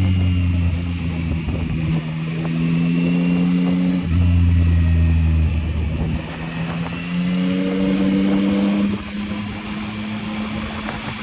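Yamaha MT-09's three-cylinder engine pulling on the road, its note holding steady, dipping briefly about six seconds in, then rising from about seven to nine seconds before levelling off a little quieter.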